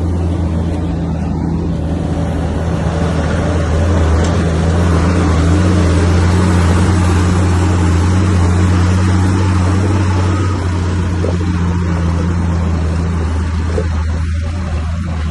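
Bulldozer's heavy diesel engine running steadily under load, a deep, even drone. A broad noise rises over it a few seconds in and eases off toward the end.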